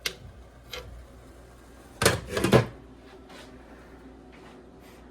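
Kitchen clatter: a sharp click, a lighter knock, then a short louder clatter of hard objects knocking together about two seconds in.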